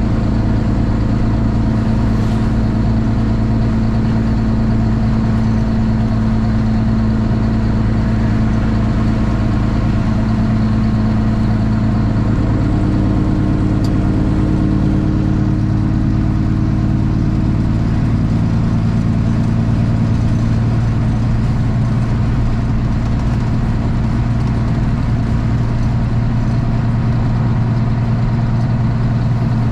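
Straight-piped Cummins ISX inline-six diesel in a Kenworth T800 running steadily, its engine note shifting in pitch about halfway through.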